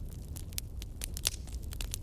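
Campfire burning, with irregular sharp crackles and pops over a low steady rumble of the flames; one louder snap about a second in.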